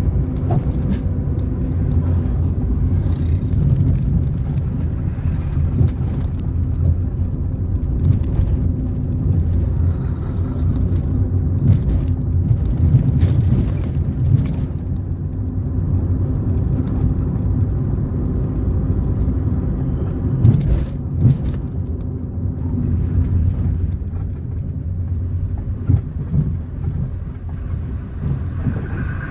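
Car driving along a road: a steady low rumble of engine and tyres, broken by a few sharp knocks, two of them close together about two-thirds of the way through.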